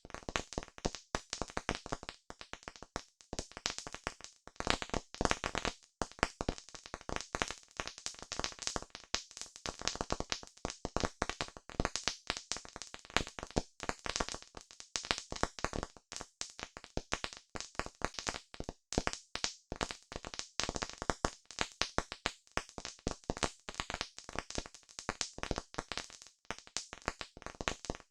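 Wood campfire crackling: dense, irregular snaps and pops, many a second.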